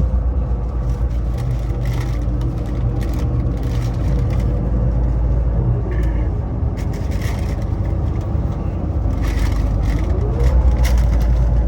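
Tour bus engine and road rumble heard from inside the cabin while driving, the engine note sliding down about six seconds in and rising again near ten seconds.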